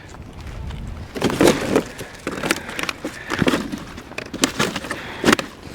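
Irregular knocks and rustling, about half a dozen knocks at uneven intervals, the sharpest near the end.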